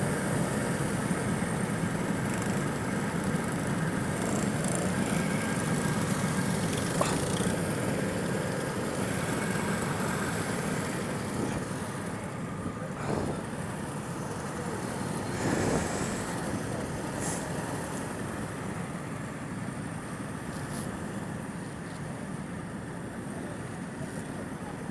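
Go-kart engine running steadily, easing off somewhat in level about halfway through.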